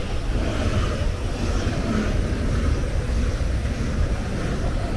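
Regional express electric train, a CFL double-deck unit coupled to a SÜWEX unit, running past close by: a steady rumble of wheels on rails with a rushing noise of the passing carriages.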